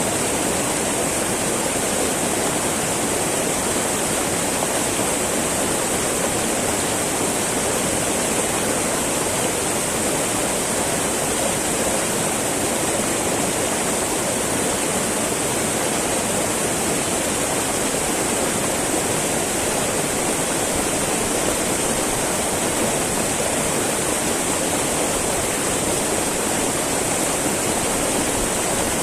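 Small mountain river babbling and rushing over rocks, a steady, unbroken flow of water.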